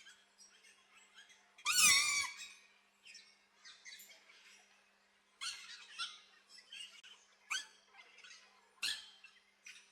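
Aviary birds calling, with repeated short chirps and squeaks and one loud harsh call about two seconds in, followed by sharper calls later on.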